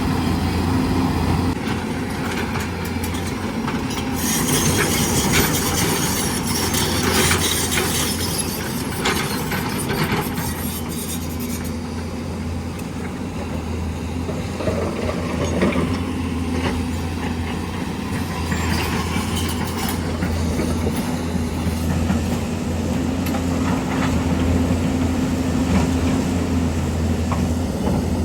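Hyundai excavator's diesel engine running steadily under load, with metallic clanking and scraping from the machine at work.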